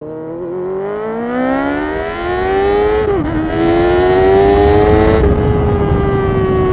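Honda CBR1000RR's inline-four engine accelerating, its pitch climbing. About three seconds in it drops sharply at a quick upshift, then climbs again and eases off slightly after about five seconds.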